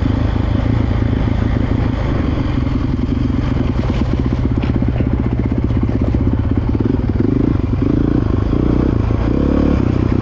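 Dirt bike engine running while being ridden, the engine note shifting up and down a few times in the second half as the throttle is worked.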